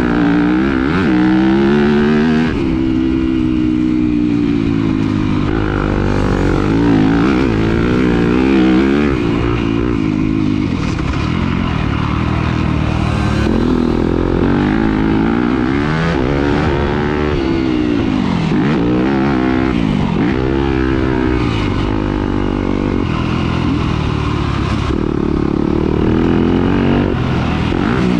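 Dirt bike engine running under constant throttle changes, its pitch rising and falling every second or two as it revs up, drops off and picks up again.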